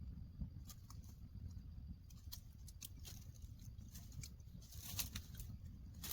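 Faint scattered clicks and taps over a steady low rumble, a little louder about five seconds in.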